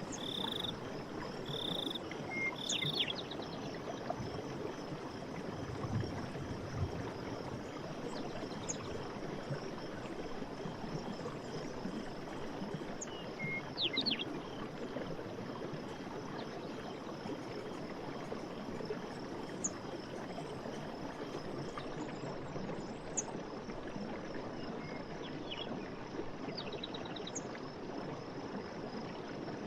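Night forest ambience: a steady rushing background with a repeated high call pulsing about once every 0.7 seconds that stops about three seconds in, then scattered short chirps and trills.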